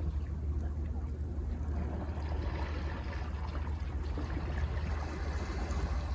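Sea surf washing against cliffs: a steady low rumble of water, with a rush of wash swelling about two seconds in.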